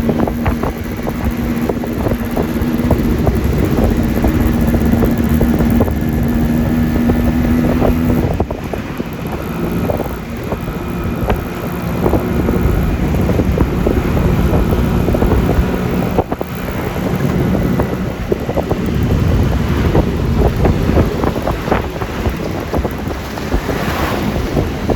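Wind rushing over the microphone with tyre and road noise from a Yamaha Lexi LX 155 scooter under way, its single-cylinder engine running beneath. A steady hum is heard for about the first eight seconds and then fades.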